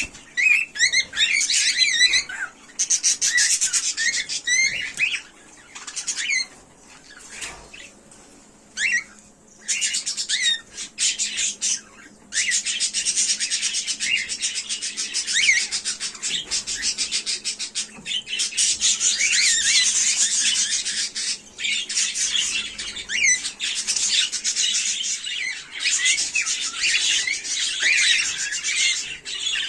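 Cockatiel chirping and squawking: short bursts of calls with pauses at first, then calling almost without a break for the rest.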